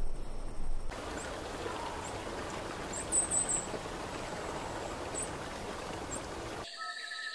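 Outdoor nature ambience: a steady rushing hiss like running water, with a few short high bird chirps scattered through it. It cuts off shortly before the end, when music begins.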